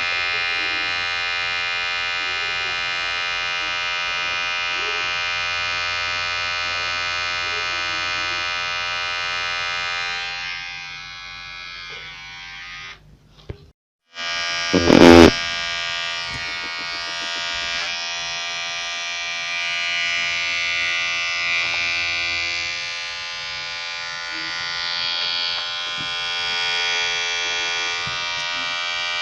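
Electric hair clipper buzzing steadily. The buzz fades about ten seconds in and cuts out briefly around the middle. A loud sharp knock follows, and then the clipper buzzes on again.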